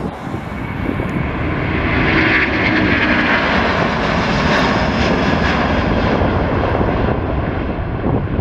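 Jet airliner's engines passing by, a loud rushing noise that swells, holds for a few seconds and then fades.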